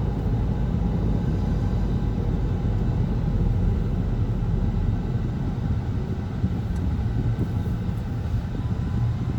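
Steady low rumble of a moving car, heard from inside the cabin: road and engine noise while driving.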